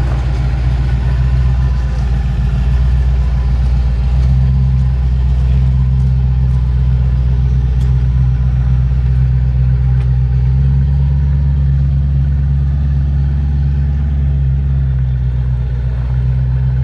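A car engine running at idle close by: a steady low note whose pitch shifts slightly about four seconds and again about ten seconds in.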